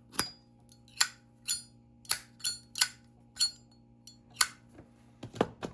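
Metal Zippo lighters clicking and clinking as they are handled: about a dozen sharp, irregularly spaced clicks, each with a brief metallic ring.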